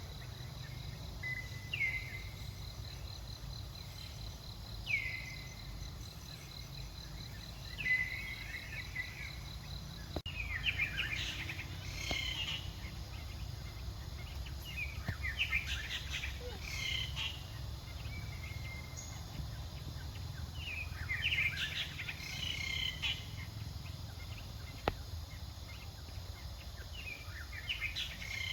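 Outdoor ambience: an insect's steady pulsing trill with short high falling chirps every few seconds, then after a cut about ten seconds in, clusters of high twittering calls every few seconds, over a low steady rumble.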